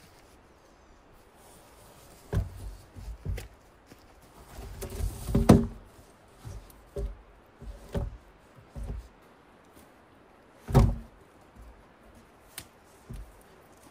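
A series of irregular heavy thuds and knocks, about eight of them, with a louder jumble of knocks a little before the middle and one loud thud about three quarters of the way through.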